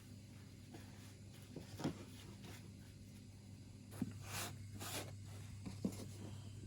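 Faint handling noises: a few light knocks and two brief swishing rustles over a steady low hum.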